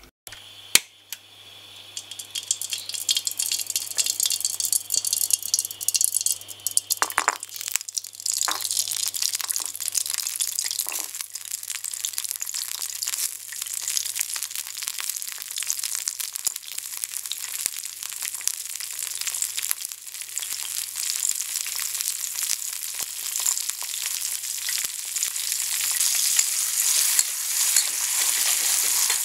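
Garlic cloves, shallots and red chilies frying in hot oil in an aluminium wok: a steady crackling sizzle from about eight seconds on, with a metal spatula stirring near the end. Before the sizzle there is a sharp click about a second in, then a few knocks as the ingredients go into the pan.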